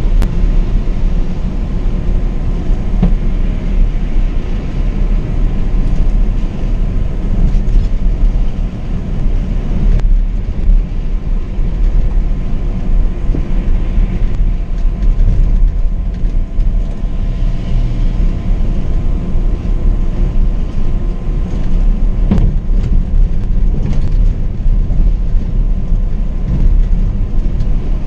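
Scania K420 double-decker coach under way: a steady low engine drone and road rumble, with a few brief knocks and rattles.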